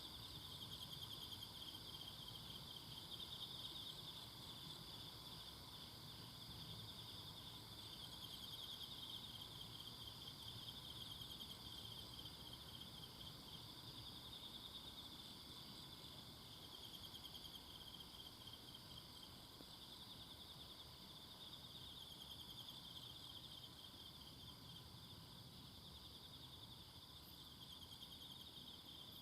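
A chorus of insects trilling steadily: a fine, rapidly pulsing high-pitched sound with a second, higher voice above it, faint overall.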